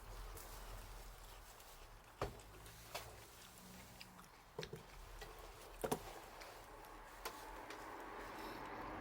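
Wood fire crackling: a handful of sharp, scattered pops and snaps from burning wood over a low, steady background hiss.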